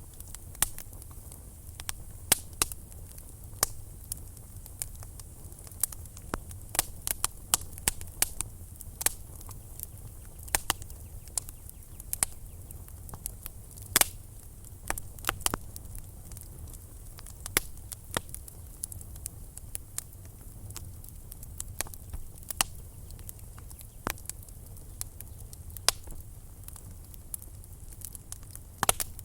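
Wood fire in a fireplace crackling: irregular sharp pops and snaps, several a second, over a low steady rumble and a faint hiss.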